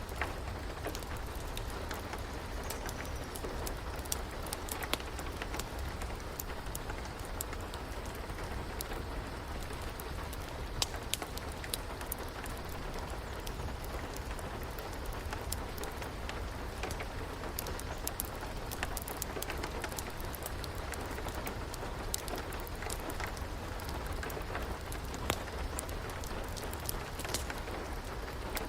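Steady rain with many scattered sharp crackles and pops, as of a wood fire burning, over a low steady rumble.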